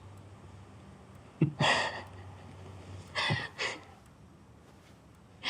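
A person's short breathy gasps, three in quick succession starting about one and a half seconds in, the first the loudest.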